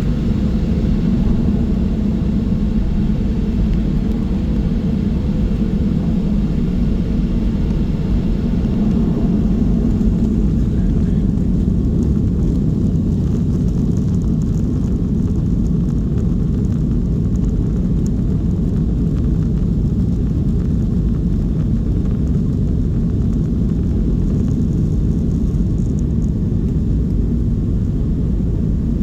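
Steady low rumble inside the cabin of a Boeing 737-700 climbing out after takeoff: its CFM56-7B jet engines and the airflow over the fuselage. A higher hiss in the noise fades about a third of the way through.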